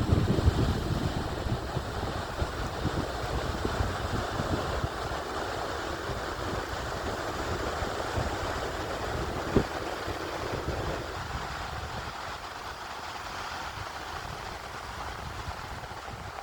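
Wind buffeting the microphone over a steady rush of sea surf on a beach. The gusts are heavy at first and ease off, with a single sharp knock about ten seconds in.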